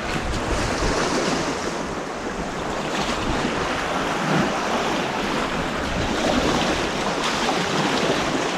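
Steady rushing of white water on an artificial white-water course.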